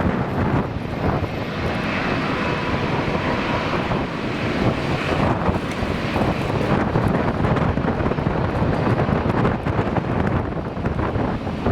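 Airliner engines running loud and steady as a plane passes, with gusty wind buffeting the microphone.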